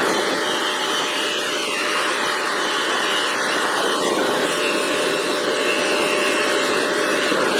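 Bench polisher's buffing wheel running steadily, with a steel wrench held against it as it is buffed with compound; a continuous whirring hiss that shifts slightly as the piece is moved on the wheel.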